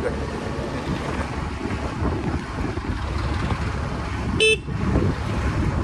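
Steady low rumble of a bus's engine and road noise, with one short horn toot about four and a half seconds in.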